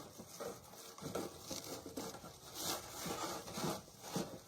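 A firewood bag rustling and rubbing as it is worked down over a wood loader's chute, with light, irregular knocks.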